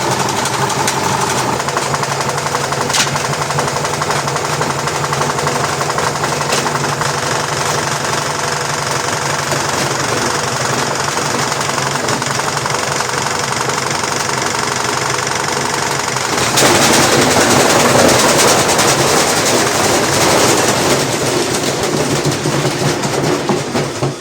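LG washing machine spinning with a brick in the drum, running with a steady motor hum and dense rapid knocking. About two-thirds of the way through it turns suddenly louder and rougher, and near the end the loudness pulses and falls as the drum slows.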